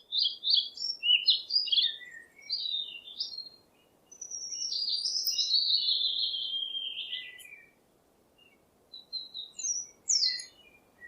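Songbird singing: a run of quick chirping notes, then a longer warbling phrase that slides down in pitch, then a few short calls near the end.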